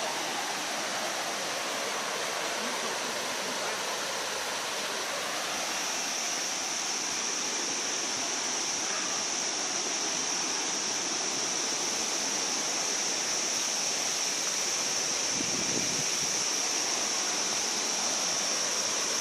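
Waterfall rushing steadily, with a thin high-pitched steady tone that grows louder about six seconds in.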